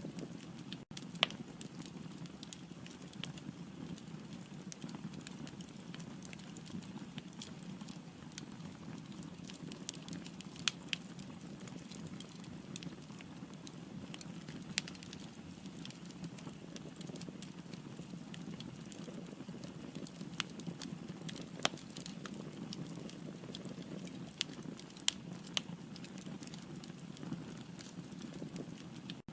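Firewood burning in a fireplace: a steady low rumble of flames with sharp, irregular crackles and pops every second or few.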